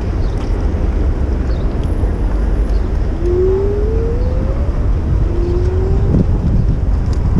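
Steady wind buffeting an action camera's microphone on a moving bicycle, mixed with city traffic rumble. Two short rising tones sound in the middle, one after the other.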